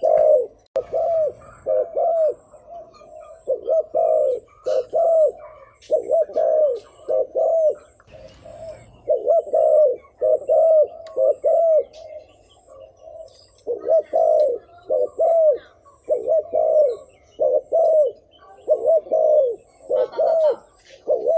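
Spotted dove cooing over and over in quick runs of two or three short, arched coos, the rapid 'thúc gù' coo that bird-keepers use to call in wild doves. A faint, evenly pulsing high tone runs beneath it.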